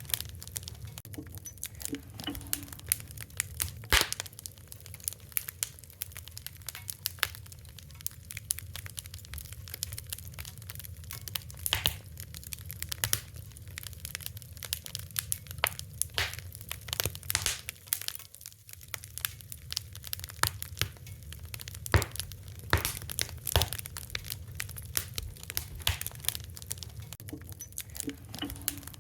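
Fire crackling: a constant run of irregular sharp pops and snaps of varying loudness, a few standing out louder, over a low steady rumble.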